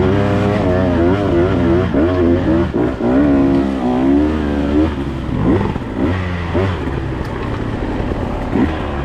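Dirt bike engine running under changing throttle, its pitch rising and falling, then several quick throttle blips in the second half.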